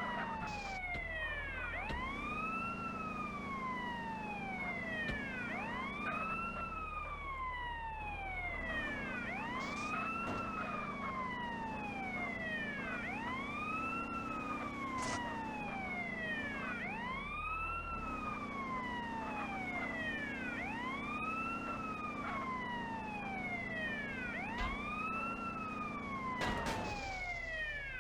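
Siren wailing, its pitch sweeping up and then falling back down about every two seconds. A sharp knock near the end.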